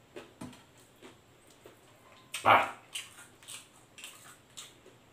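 Close-up eating sounds of fried chicken eaten by hand: soft chewing and lip-smacking clicks, with one short loud sound about halfway through.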